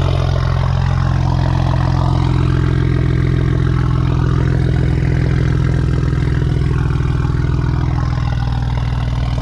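BMW 335i's twin-turbo N54 straight-six idling steadily through a VRSF straight-pipe race exhaust.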